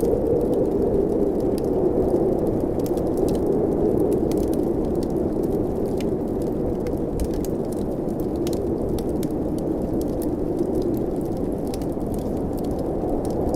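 Blizzard wind blowing steadily with a low rushing howl, while a wood fire crackles with many small, irregular pops.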